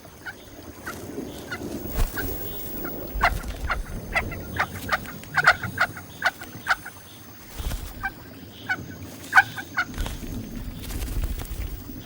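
Picathartes (rockfowl) at the nest giving many short, sharp calls at irregular intervals, some in quick runs, over a low rumble that swells at times.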